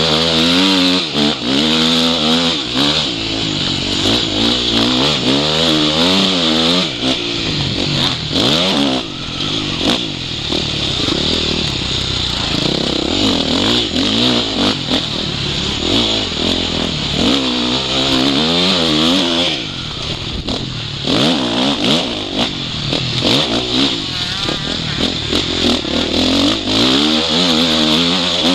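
Motocross bike engine revving hard and easing off again and again as it is ridden around the track, the pitch rising and falling with throttle and gear changes, under a steady hiss. It is heard from the rider's own goggle-mounted camera.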